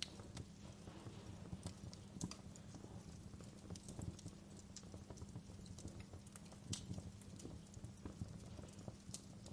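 Wood fire crackling in a fireplace: irregular sharp pops and snaps over a steady low rumble of the flames, with the loudest pops about two seconds in and again near seven seconds.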